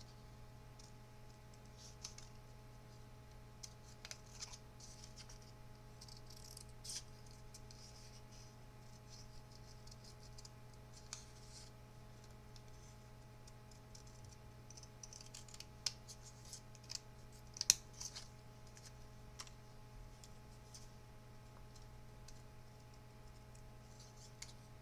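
Paper snips cutting cardstock, faint scattered snips and paper rustles with a few sharper clicks, over a steady low hum.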